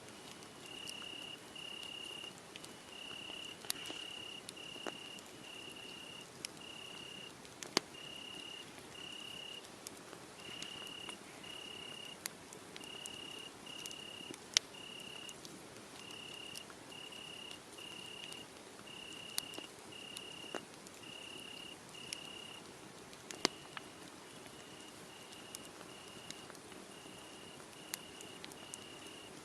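Crickets chirping at one high pitch, about a chirp a second, over a wood fire crackling with sharp pops now and then.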